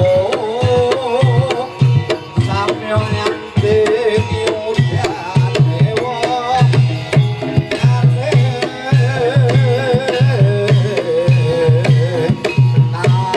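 Javanese gamelan music accompanying a jaranan horse dance. Kendang hand-drum strokes drive a quick rhythm under a wavering melodic line and steady metallophone tones.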